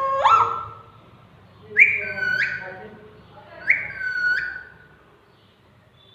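Pet parrot whistling. A rising whistle ends about a second in, then comes two matching two-note whistles about two seconds apart, each leaping high and then settling on a lower held note.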